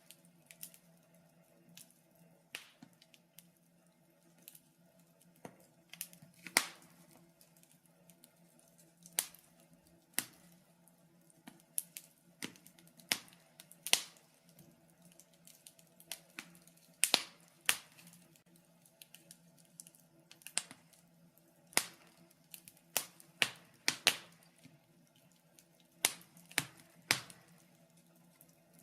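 Wood fire in a fireplace crackling, with irregular sharp pops and snaps a few times a second.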